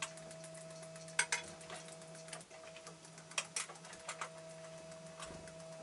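Sharp, irregular clicks and taps of a varied tit moving about on a wooden perch and plastic feeder parts and handling sunflower seeds, over a faint steady hum.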